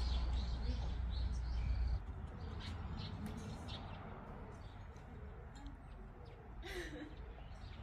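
Small birds chirping, short high calls scattered throughout, over a low rumble that drops away about two seconds in.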